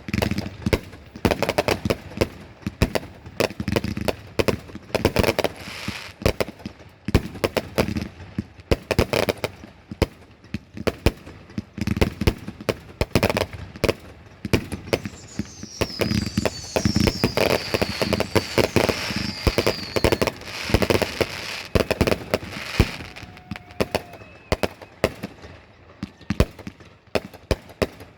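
Consumer fireworks going off: a dense, continuous run of cracks and bangs, with a high whistle falling in pitch about halfway through.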